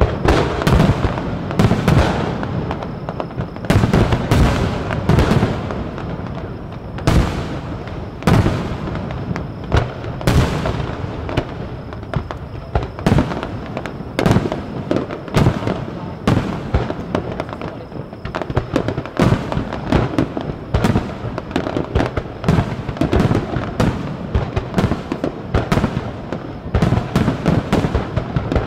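Aerial firework shells bursting close overhead in a dense, continuous barrage: loud booms come every second or so, each trailing off into the next.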